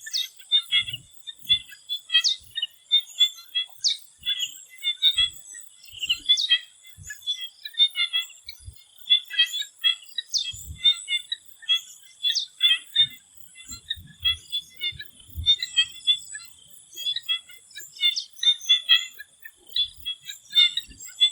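Chorus of swamp frogs calling in quick clusters of short notes, over a steady high-pitched insect drone.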